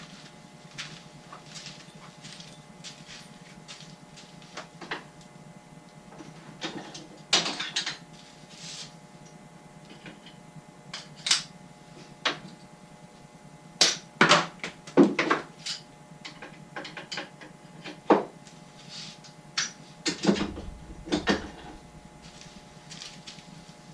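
Scattered clicks, knocks and light clatter of tools and parts being handled and set down, irregular and in small clusters, over a faint steady hum.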